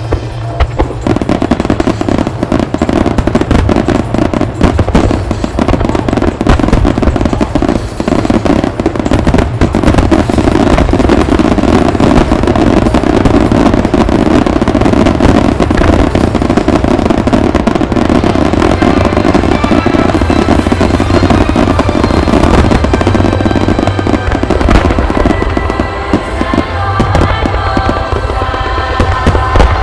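Large aerial firework shells bursting in a rapid, continuous barrage, with deep rumbling booms and crackle, over a song playing on the show's sound system. The bursts thin out near the end and the music comes forward again.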